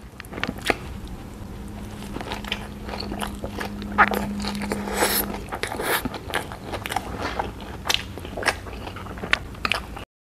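Close-up mouth sounds of eating a jumbo cheese sausage hot dog in a soft bun with shredded slaw: bites and chewing, with many irregular crunchy clicks. The sound cuts out briefly just before the end.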